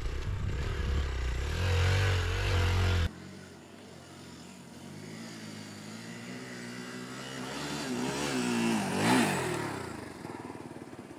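Hero XPulse 200 4V single-cylinder dirt bike engine revving, its pitch rising and falling with the throttle. For the first three seconds it is louder, with a heavy low rumble, and this ends abruptly. The engine then climbs to a peak about nine seconds in and falls away.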